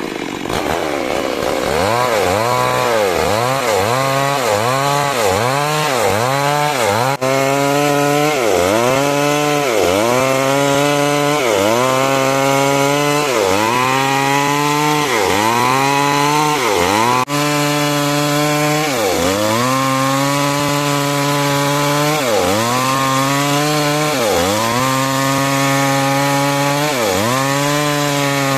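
Two-stroke chainsaw cutting timber into 6 × 6 cm rafters, running at high revs. Its engine pitch sags and recovers about once a second as the chain bites into the wood under load.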